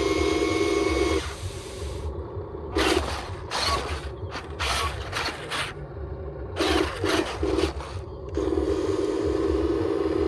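Small electric motor of a toy RC construction vehicle running with a steady pitched hum, which stops about a second in. Two spells of rapid plastic gear clicking and rattling follow, and the motor hum starts again near the end.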